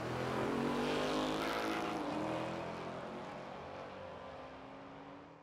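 A car engine accelerating away: its note rises, drops about two seconds in and then fades out.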